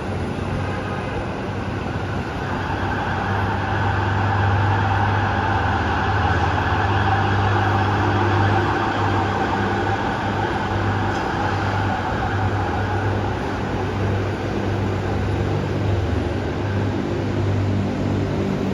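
Rubber-tyred Line 15 monorail train running through the station, a steady motor whine and tyre hum that grows louder over the first few seconds and eases a little after the middle.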